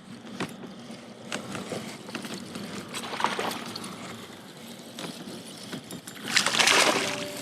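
Water splashing and trickling around a fishing kayak, with scattered small knocks and a louder splash about six seconds in.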